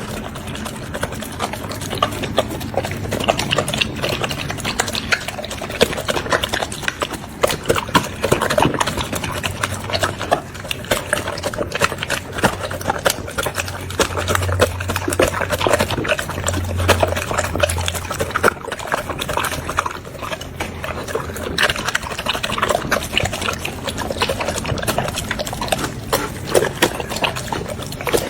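A small dog eating, chewing and crunching on a dog chew with a continuous run of rapid crunches and clicks.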